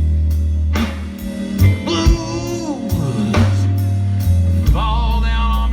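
Live blues band playing a slow blues: steady drum kit strikes and a heavy bass line under a lead melody with sliding, bending notes, which comes in about two seconds in and again near the end.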